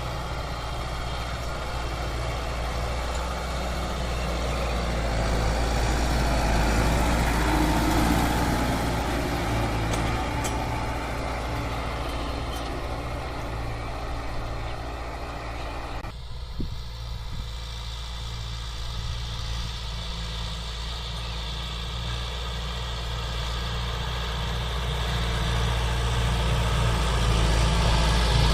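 Kubota MU 4501 tractor's diesel engine running steadily at work, swelling louder twice. A heavy rushing noise over it cuts off abruptly a little past halfway, leaving the engine's low hum.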